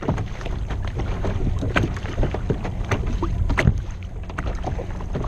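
Water splashing and slapping irregularly against a kayak, with wind rumbling on the microphone.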